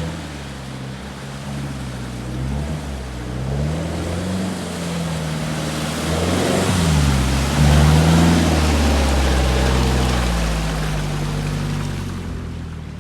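Off-road 4x4's engine revving up and down under load, with a rushing wash of water that swells in the middle and fades near the end, as the vehicle drives through a water-filled rut.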